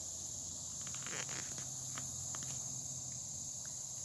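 Steady high-pitched insect chorus, with a few faint clicks about a second in.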